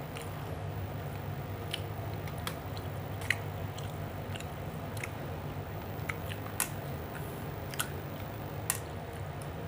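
Someone eating: chewing, with scattered short sharp clicks, over a steady low hum.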